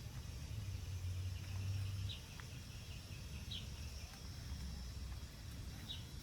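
Garden ambience: three short, high bird chirps spaced a second or two apart, over a low rumble that is strongest in the first two seconds and a faint steady high hiss.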